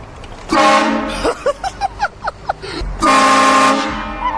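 Loud prank car horn sounding two blasts: a short one about half a second in and a longer one about three seconds in. Between the blasts come a series of short squeals that rise and fall in pitch.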